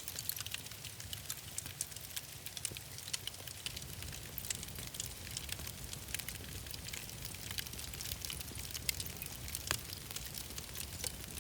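Wood fire burning in a fireplace, crackling with frequent small pops over a low steady rumble, one sharper pop near the end.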